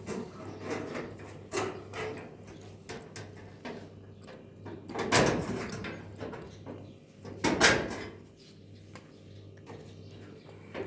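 Objects being handled: scattered knocks and clicks, with two louder scraping clatters about five and seven and a half seconds in, over a steady low hum.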